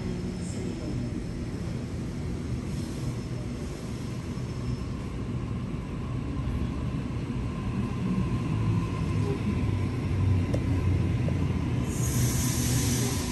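Train rumbling along the tracks, getting louder from about halfway through, with a steady whine. A burst of high hissing comes in near the end.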